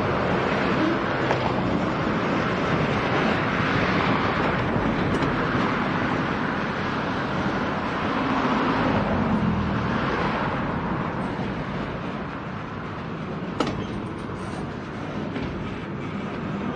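Freight cars loaded with steel plate rolling slowly along the track: steady wheel-on-rail noise that swells and eases, with one sharp click about three-quarters of the way through.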